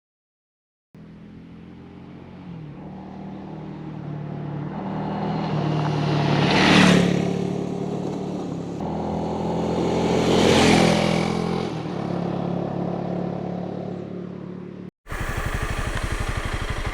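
Honda CRF300L Rally dual-sport motorcycle's single-cylinder engine running as the bike rides past twice, each pass building to a loud peak, about six and ten seconds in. Near the end the sound cuts to the engine heard close up, running at a steady pace.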